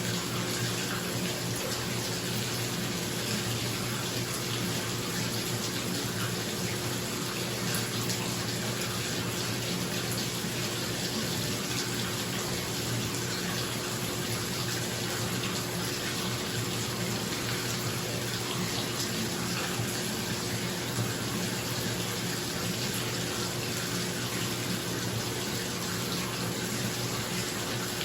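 Bath tap running steadily into a filling bathtub, with a bathroom exhaust fan adding a steady low hum underneath.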